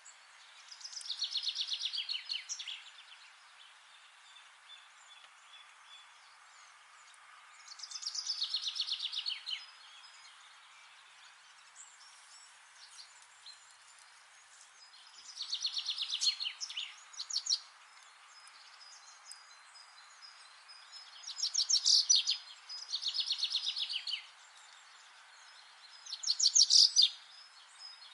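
A songbird singing fast, rapidly repeated trilled phrases that fall in pitch, each lasting one to two seconds. Six phrases come at intervals of several seconds, the last three closer together, over a steady background hiss.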